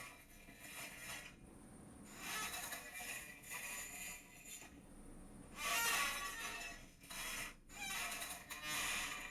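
A chair creaking and squeaking in four bouts, each lasting one to two seconds, with short pauses between them.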